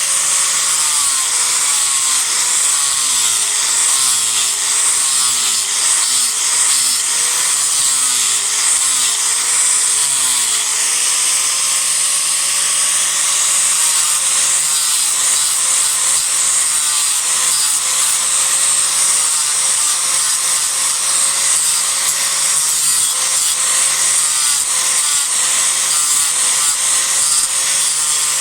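Disc grinder running and grinding into a cedar block, rough-shaping wood in a continuous grinding noise. The motor pitch dips and recovers repeatedly as the disc bites for about the first ten seconds, then holds steadier.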